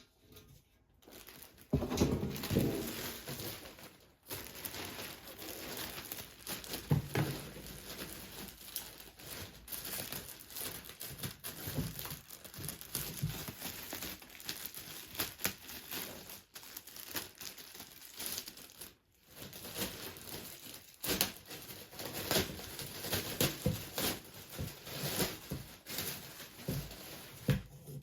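Packaging crinkling and rustling as it is handled, with irregular crackles and taps throughout.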